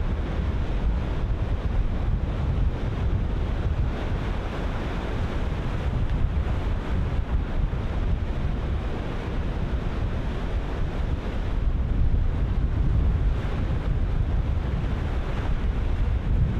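Ocean surf breaking continuously, one wave on another, with strong wind buffeting the microphone as a steady low rumble underneath.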